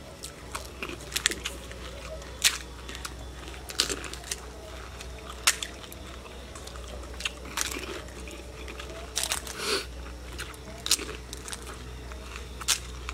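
Puchka (pani puri) being bitten and chewed: crisp hollow fried shells cracking in sharp, irregular crunches about every second or so, with wet chewing between them.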